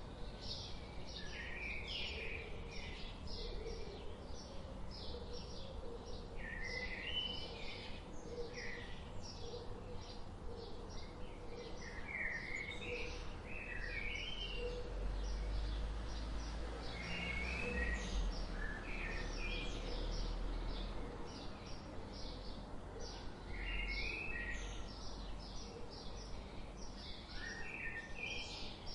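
Songbirds chirping continuously, many quick high chirps overlapping with short warbled phrases, over a low rumble that swells for several seconds in the middle.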